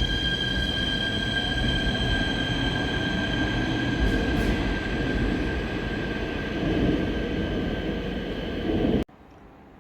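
Seoul Subway Line 4 electric train running at the platform: a loud rumble with a steady high-pitched whine or squeal over it. The sound cuts off abruptly about nine seconds in.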